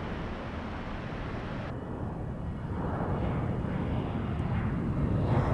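Airliner jet engine noise, a steady noise that grows louder through the second half as the plane nears.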